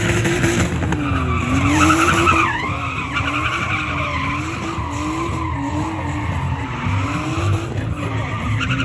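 A car doing a burnout: the engine is held at high revs, its pitch wavering up and down again and again, while the spinning rear tyres squeal.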